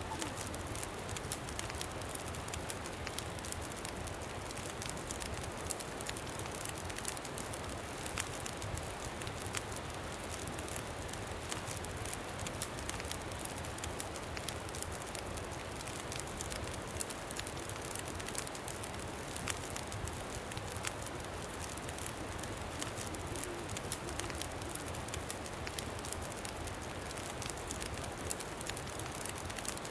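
Campfire crackling, many small sharp pops, over a steady low rumble of wind.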